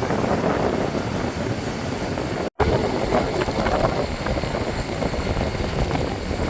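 Bernina train running, a steady noisy vehicle sound with no clear tone, which cuts out abruptly for a moment about two and a half seconds in.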